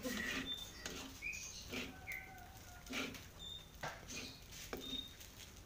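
Small birds chirping, short high chirps several times over a few seconds, with soft knocks about once a second.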